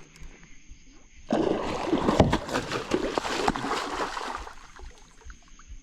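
A hooked catfish thrashing at the surface beside a kayak: a burst of water splashing starts about a second in, lasts about three seconds and then dies away.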